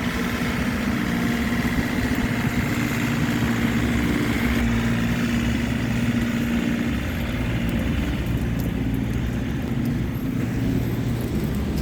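Snowplow engine running steadily, a low drone that eases about seven seconds in.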